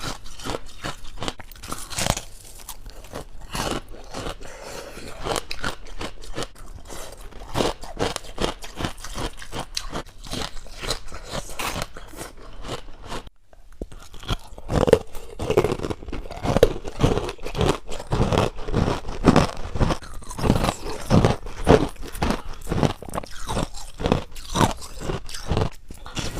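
Close-up crunching and chewing of syrup-topped white frost. It starts as a dense run of small crunches, falls quiet briefly about halfway, then comes back as louder, regular chewing crunches about two a second.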